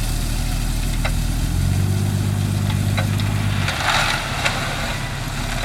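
Heavy diesel engine of a construction machine running, its note growing stronger and holding from about a second and a half in to nearly four seconds, then easing back, with a brief rushing noise right after.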